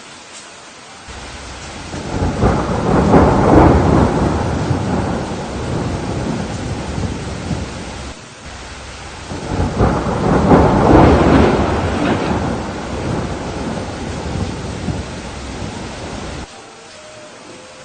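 Steady rain with two long rolls of thunder. The first builds about two seconds in and fades; the second swells about ten seconds in. Each rumble cuts off abruptly.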